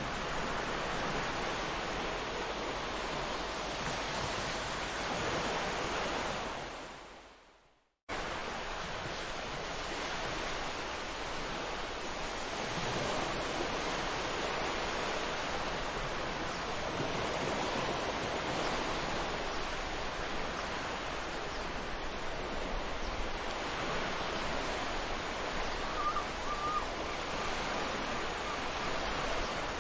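Ocean surf breaking on a beach, a steady wash of waves. The sound fades away to silence about seven seconds in and cuts straight back in a moment later; a short high chirp sounds near the end.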